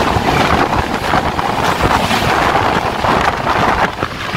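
Steady loud rush of a passenger train's coaches running past close alongside on the adjacent track, heard from the open door of another moving train, with wind on the microphone.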